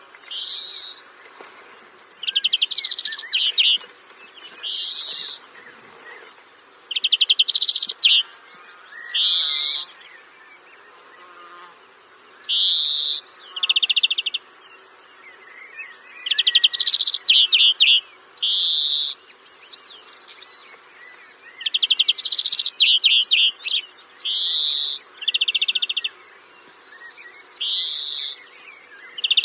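A bird calling over and over, high-pitched: short rising notes alternating with fast buzzy trills, a call every second or two, over a faint steady background drone.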